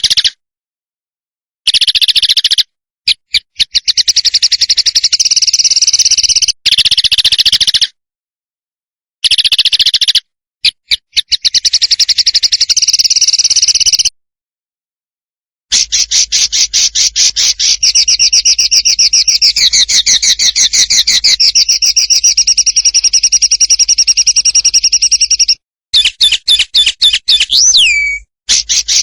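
Recorded songbird song: fast rattling trills of rapidly repeated high notes, in bursts lasting from about one second to ten seconds, separated by abrupt silent gaps. A downward-sliding whistle comes near the end.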